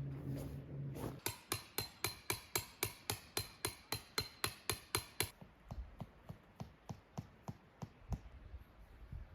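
A hammer driving tent pegs into the ground. A fast, even run of ringing strikes comes at about four a second, then after about five seconds it turns into softer, duller blows.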